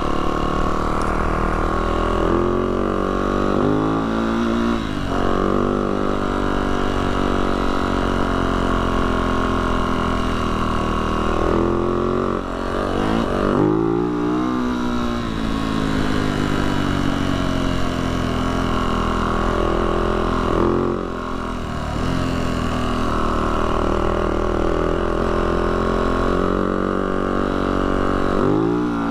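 Yamaha YZ450F dirt bike's single-cylinder four-stroke engine running under way on a trail, its revs rising and falling with the throttle, with a few quick sweeps in pitch such as near the middle of the stretch.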